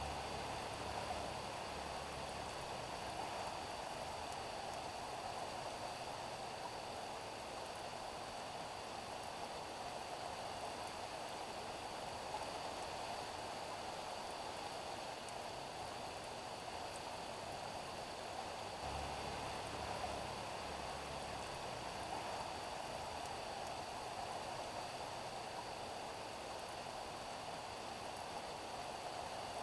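Steady rain falling on a street, an even hiss. A low rumble comes in briefly near the start and again about two-thirds of the way through.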